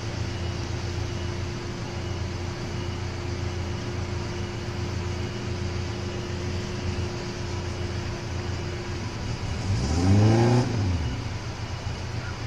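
Small soft-top 4x4 engine running steadily against the rush of a rocky river. About ten seconds in, the engine is revved once, rising and falling in pitch over about a second, as the vehicle works to climb over boulders.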